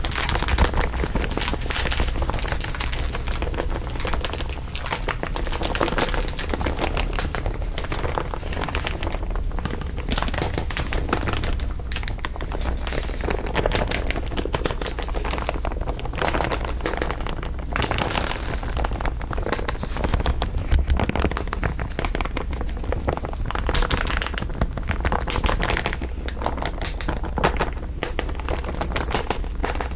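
Layers of dense, continuous crinkling, many overlapping crackles without a break, over a steady low hum.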